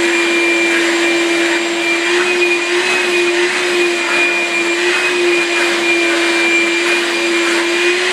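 Shop vac running continuously, a loud, steady motor whine whose pitch wavers slightly as it is used to vacuum a dog's coat.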